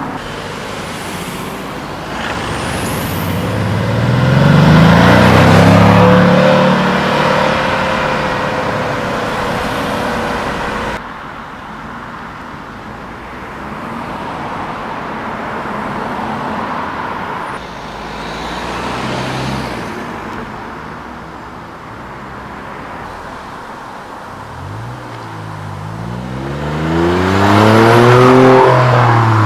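Car engines revving as cars accelerate away one after another. A first car climbs in pitch a few seconds in, a softer one passes in the middle, and the loudest rises steeply in pitch near the end.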